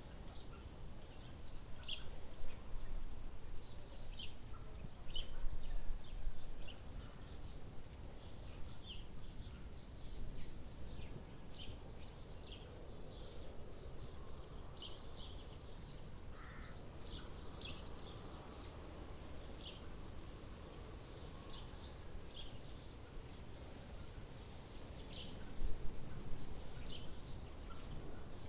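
Steady low background noise with short, high bird chirps repeating irregularly, about one every second. A few louder low rumbles come about two to six seconds in and again near the end.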